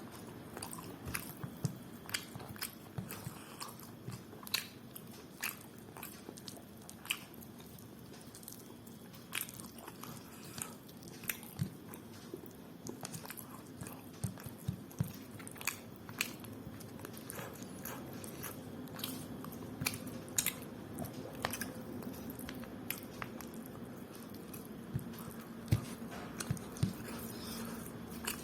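Close-miked chewing and biting of a meal of rice and curry, with irregular sharp mouth clicks and smacks a few times a second over a faint steady hum.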